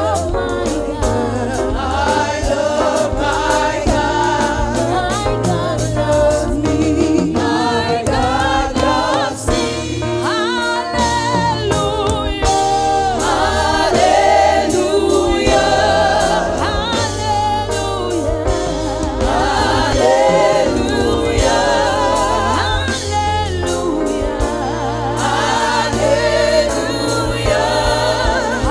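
Gospel worship music: voices singing together as a choir over steady low instrumental notes and sharp percussive hits.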